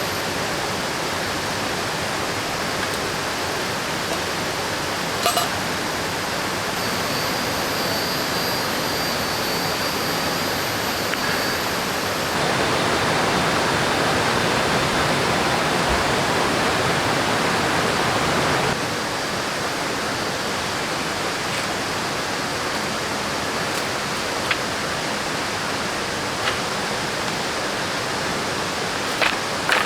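River water rushing steadily, a little louder for about six seconds in the middle, with a few faint clicks.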